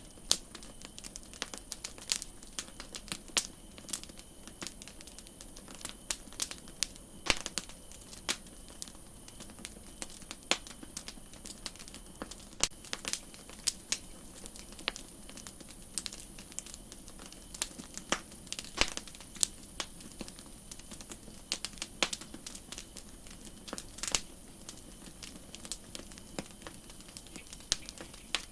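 Wood campfire crackling: irregular sharp pops and snaps, several a second, over a steady hiss of burning. A high hiss grows louder about a third of the way in and falls back near the end.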